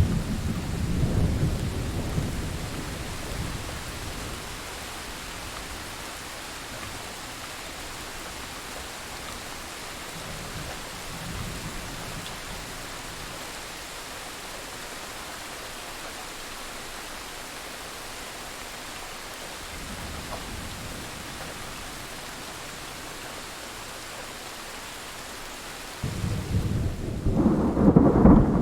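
Thunderstorm: steady rain hissing, with a rumble of thunder dying away over the first few seconds. Near the end a loud thunderclap breaks in suddenly and rumbles on.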